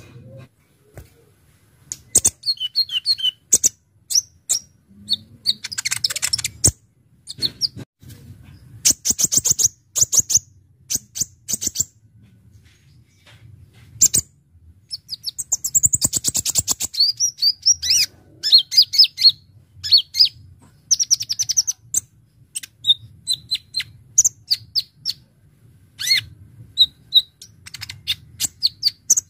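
Kolibri ninja (a sunbird) singing: bursts of sharp, high chips and fast rattling trills, broken by short pauses, over a faint low hum.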